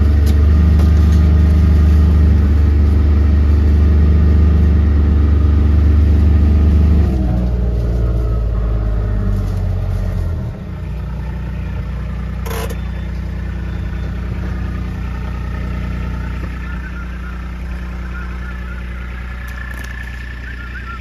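Vehicle engine running while driving slowly, dropping in level about seven seconds in and settling to a steady, quieter idle from about ten seconds on. A single short click comes a couple of seconds after the drop.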